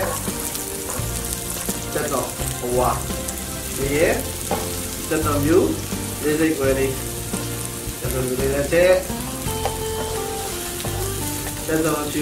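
Diced onion and bay leaves frying in hot oil in a wok, sizzling steadily as a wooden spatula stirs them.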